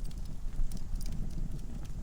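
Wood fire burning in a fireplace: a low steady rumble of flame with irregular sharp crackles and pops from the logs.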